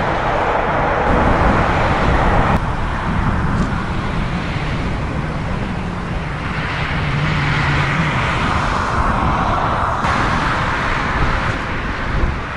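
Jet airliner engine noise on a landing approach, mixed with strong wind on the microphone: a steady loud rumble and hiss. It changes abruptly twice, about two and a half seconds in and again near ten seconds.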